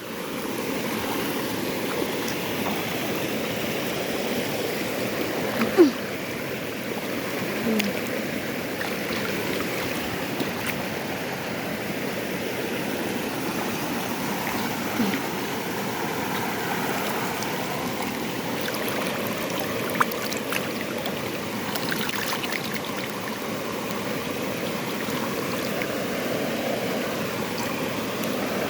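Waterfall stream water rushing steadily, with a few faint brief knocks.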